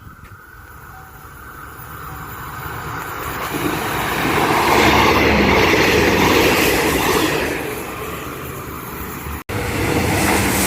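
Daewoo diesel multiple-unit express train passing at speed. It grows louder over a few seconds, stays loud for about three seconds, then eases off. Near the end the sound cuts abruptly to another train already passing loudly.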